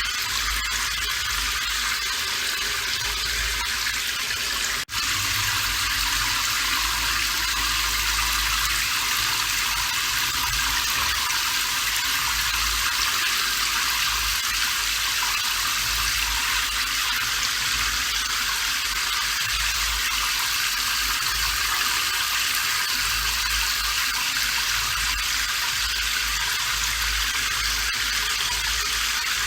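Steady rain, an even hiss of falling water; it drops out for an instant about five seconds in.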